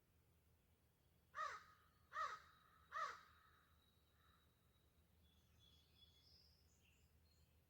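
A crow-family bird gives three harsh caws, spaced about a second apart, followed by faint high chirps from smaller birds.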